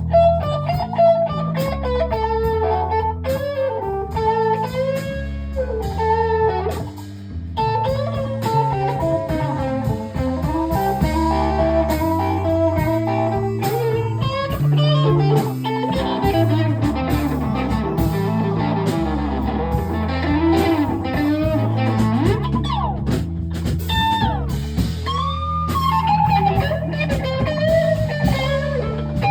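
Live blues jam: electric guitar playing lead lines with frequent string bends over low sustained backing notes and a steady beat.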